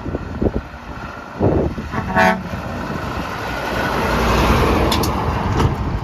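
A truck sounds its horn in one short blast about two seconds in, then passes close by, its engine and tyre noise swelling and fading.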